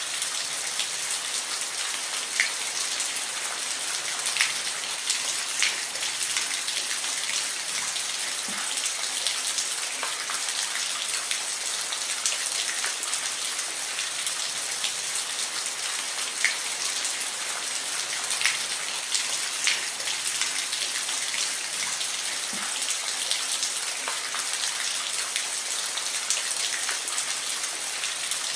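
Steady rain falling: an even hiss with scattered sharper drop ticks now and then.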